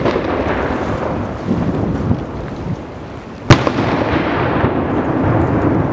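Fireworks at a display: two sharp, loud bangs about three and a half seconds apart, each followed by a long echo that dies away slowly.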